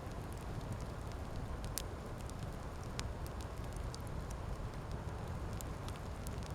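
Wood campfire crackling: irregular sharp pops and snaps over a steady low rushing noise.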